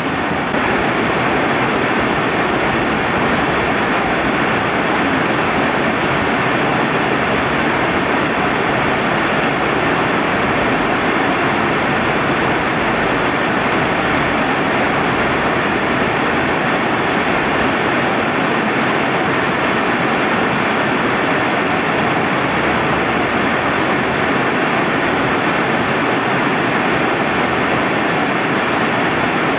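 Steady heavy rain with the rush of a river: a dense, even hiss that barely changes, with a slight rise in level about half a second in.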